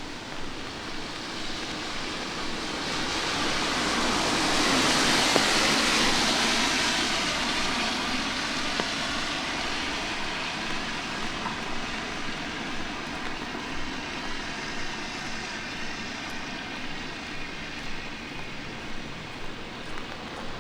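A vehicle passes on a wet street: a hiss that swells over a few seconds, peaks and fades. Steady light rain runs underneath, with regular footsteps on wet pavement.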